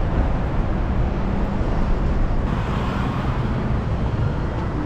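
Steady city street noise: traffic in a busy urban district, with low rumble from vehicles.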